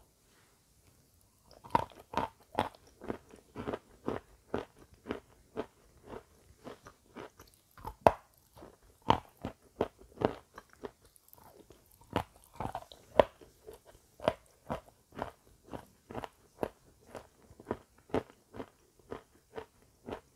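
Close-up crunching and chewing of a dry, crisp white snack. There is near quiet for the first second and a half, then steady crunches at about two a second.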